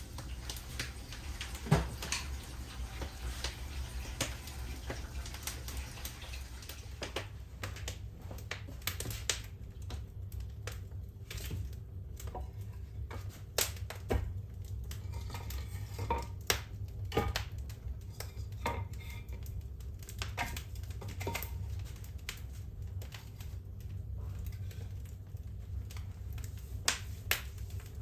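Fire crackling: irregular sharp pops and snaps, a few much louder than the rest, over a steady low rumble.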